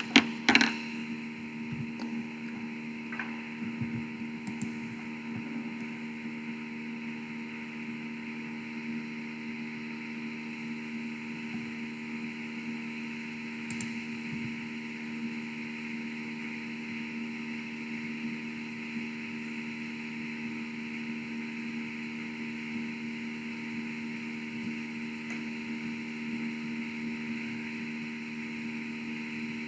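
Steady electrical hum and hiss in the audio feed, several constant tones over a band of hiss, from a sound system with known problems. A couple of knocks come about half a second in.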